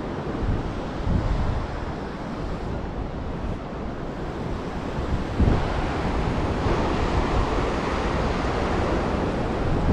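Ocean surf breaking and washing up the beach, with wind buffeting the microphone as a low rumble. A wave surges in louder about five and a half seconds in.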